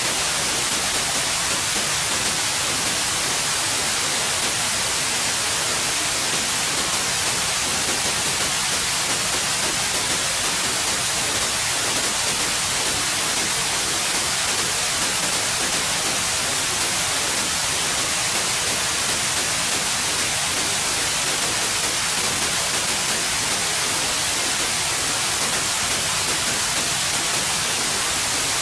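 Steady white noise: an even, unbroken hiss, brightest in the high end, with no change in level.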